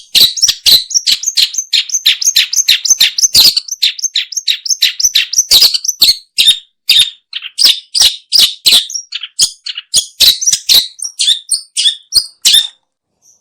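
Long-tailed shrike (pentet/cendet) singing a loud, rapid chattering song of short, sharp, varied notes, several a second, breaking off shortly before the end.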